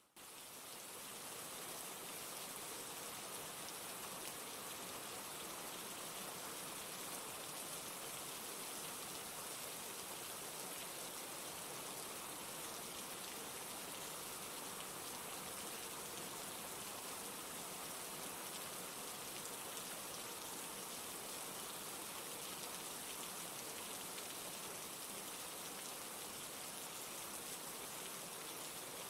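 Steady rain falling, an even hiss that rises back up from a brief dip right at the start and then holds level.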